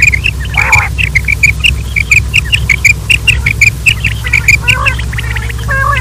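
Quail calling: a fast, even run of short high chirps, about five a second, with a harsher, lower call just under a second in and a few lower squeaky notes near the end. A steady low hum runs underneath.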